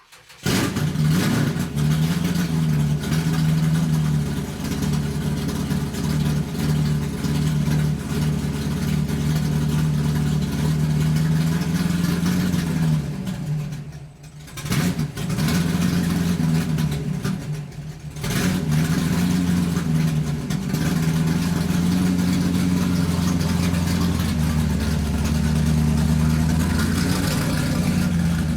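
Motor of a SAKAI ML-360 benchtop lathe running with a steady hum. About halfway through it dies away and winds back up, twice in a few seconds.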